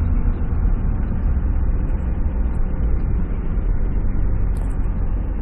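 Lifted Jeep Cherokee driving slowly, a steady low rumble of engine and road noise heard from inside the cabin.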